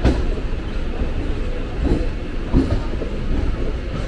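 Mumbai suburban local train running, heard from its open doorway: a steady low rumble of wheels on the rails, with a few sharp knocks from the wheels on the track, one at the start and two more about two seconds in.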